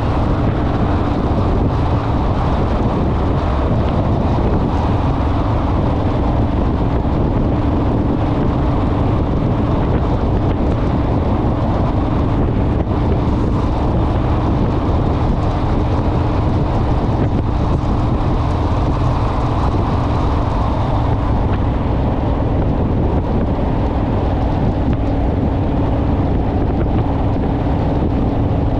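Honda Rebel motorcycle cruising at a steady speed: even engine and road rumble with a steady drone, under heavy wind rush on the microphone.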